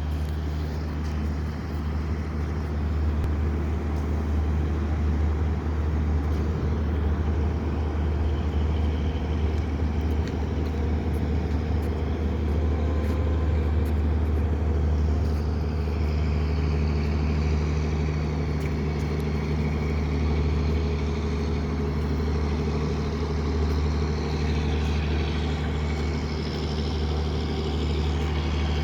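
A boat's engine running steadily as the boat comes into the harbour: a continuous low drone, with a higher whine joining about halfway through.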